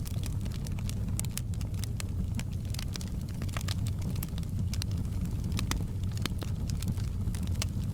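Campfire burning, with frequent irregular sharp crackles and pops of burning wood over a steady low rumble.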